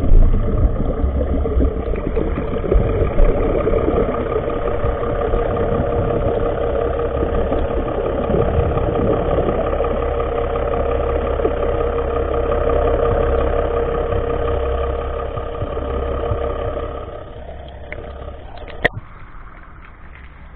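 A boat's engine running steadily with a low rumble and a constant hum. It fades about three-quarters of the way through, and a single sharp click comes near the end.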